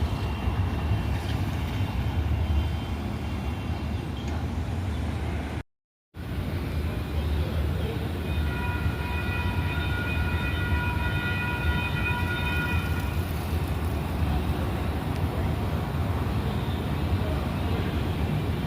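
Light rail train running with a steady low rumble, broken by a brief cut to silence about six seconds in. Later, a steady pitched horn sounds for about four seconds.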